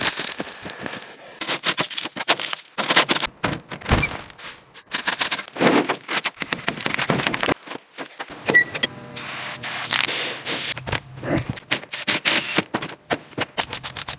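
Irregular clatter of knocks, clanks and rattles, with a brief low hum about nine seconds in.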